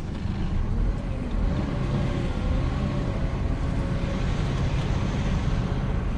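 Old Scania truck's diesel engine running steadily while the truck drives unladen, heard from inside the cab as a continuous low rumble with a faint whine.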